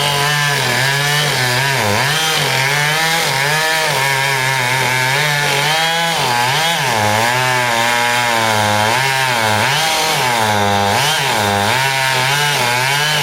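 Chainsaw cutting wood, its engine note rising and dipping over and over as the chain loads and frees in the cut, likely silver fir.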